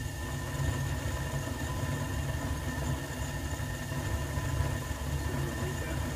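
Home gas furnace running: a steady low rumble with a faint constant whine over it. The owner takes the furnace for faulty, with a warped burner.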